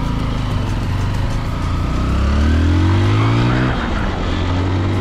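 A vehicle engine accelerating. Its pitch climbs for about a second and a half, drops sharply at a gear change nearly four seconds in, then holds and climbs again.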